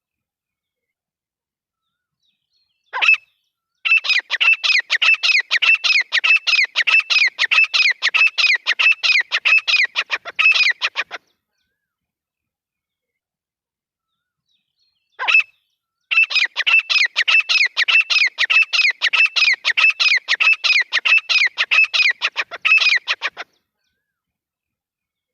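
Grey francolin calling: two bouts of its rapid, loud, repeated call notes, about four a second, each opened by a single separate note and lasting about seven seconds.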